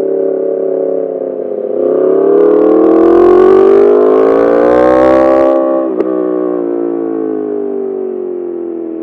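Yamaha R1 inline-four through an Akrapovic full titanium exhaust, accelerating hard with its pitch rising for about four seconds. A single sharp crack comes about six seconds in, then the engine note falls steadily as the bike slows.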